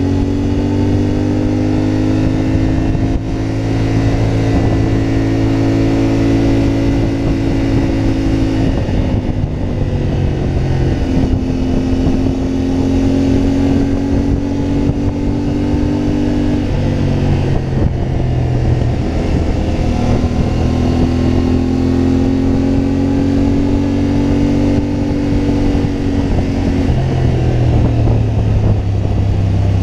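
CFMoto 450MT's parallel-twin engine under way, its note holding steady for stretches and shifting in pitch several times with throttle and gear changes.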